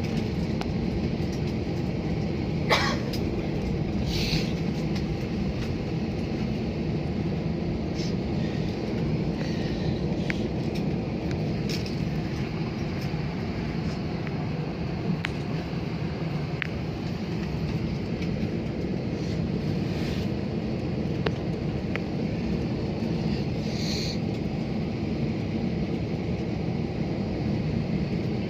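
Steady rumble of an airliner cabin as the plane rolls on the ground after landing, with a few brief rattles and clicks.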